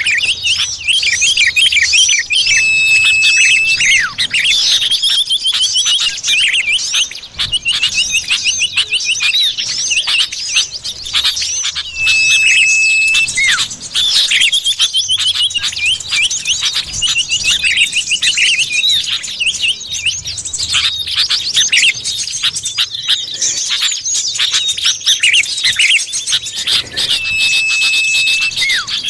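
Common iora (cipoh) calls used as a bird lure: rapid, dense chirping throughout, broken three times by a long steady whistle held for about a second.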